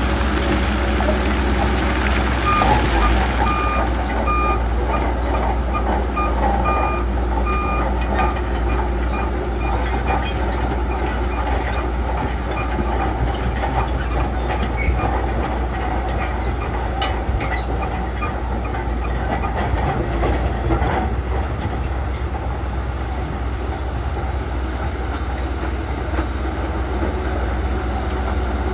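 Shantui crawler bulldozer's diesel engine running steadily under load, with the clanking and squeal of its steel tracks. A reversing alarm beeps repeatedly for several seconds early on.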